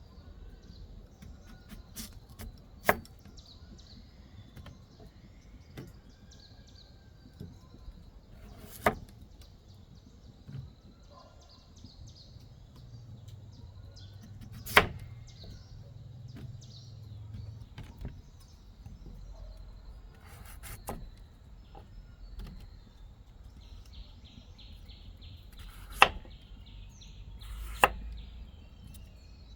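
A handful of sharp single knocks, several seconds apart, with faint bird chirping behind them.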